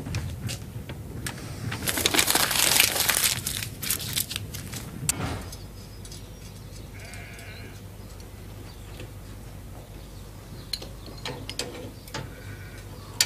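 Sheep bleating, with two short calls several seconds apart. They follow a loud rushing noise in the first few seconds.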